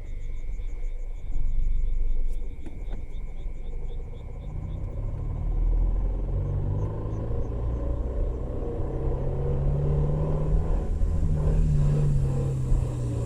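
Car in a low gear at about 1000–2000 rpm with the accelerator blipped on and off: a steady low rumble with the groan the owner hears from the transmission since a gearbox oil change.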